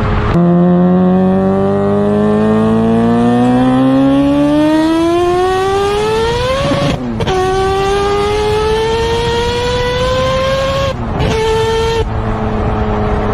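A high-revving car engine accelerating hard: its pitch climbs steadily for about six seconds, drops at a quick upshift, climbs again, and drops at a second shift about eleven seconds in. Near the end it holds a steady note.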